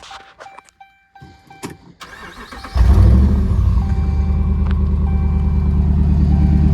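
Clicks and a repeating dashboard chime, then the 5.7 L Hemi V8 of a 2010 Dodge Ram 1500 cranks about two seconds in. It catches loudly near three seconds and settles into a steady idle as it is started to warm the oil before an oil change, with the chime still beeping.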